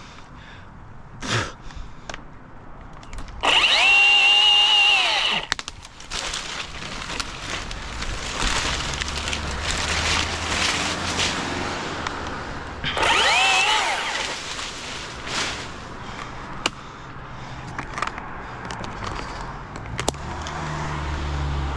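Battery chainsaw whining up to speed and running for about two seconds, then again briefly about nine seconds later, with rustling noise between. A low hum comes in near the end.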